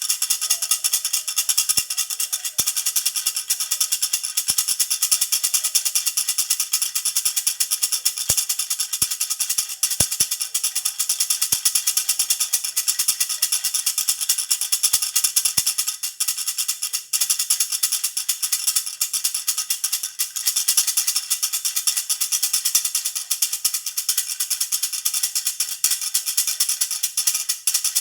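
Baby rattle (jhunjhuna) shaken without pause: a dense, steady, high jingling rattle.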